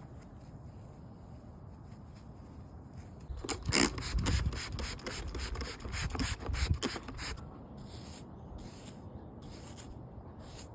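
A brush rubbing through a horse's hair in a run of short strokes. The strokes come mostly from about a third of the way in to two-thirds of the way through, the first of them the loudest, with only faint strokes after.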